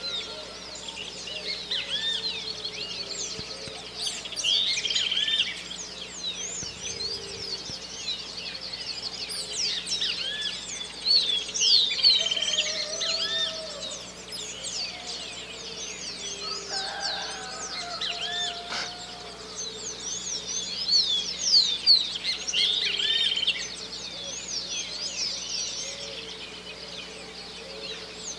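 Dawn chorus of many birds chirping and singing at once, quick overlapping swooping notes, with a few lower calls near the middle.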